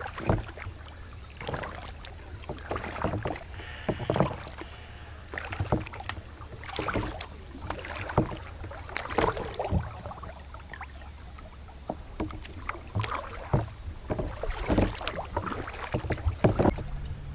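Kayak paddle strokes in calm water: the blade dipping and splashing at an irregular pace of roughly one a second, with drips between strokes, over a steady low hum.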